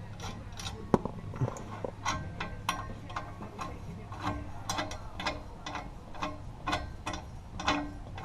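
Hand socket ratchet clicking as it is swung back and forth, in short irregular clicks about two a second.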